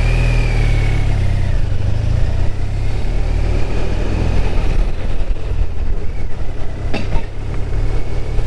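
BMW R1200RT's flat-twin boxer engine running steadily while the bike is under way, mixed with wind and road noise. Two short clicks come about seven seconds in.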